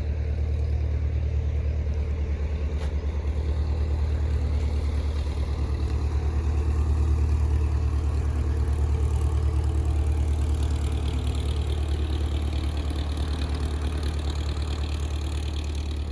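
Small boat engine running steadily with a low, rapid throb, growing a little louder toward the middle and easing off near the end.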